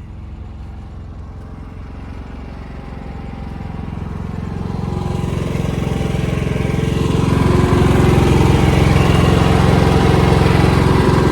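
An engine running steadily, growing louder from about four seconds in until about eight seconds in, then holding loud.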